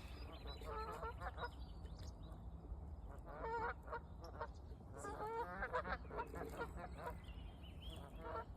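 A swan making short, nasal, honking calls in about four brief bouts. A thin, high whistle near the end is likely a small bird.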